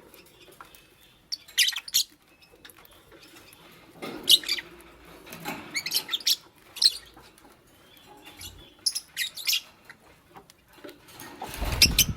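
Fischer's lovebirds chirping in short, high bursts every second or two, with a louder rustle near the end.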